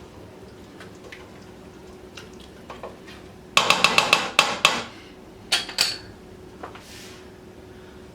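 Metal utensil clanking against a cooking pot: a quick run of about half a dozen ringing knocks about three and a half seconds in, then a couple more a second later.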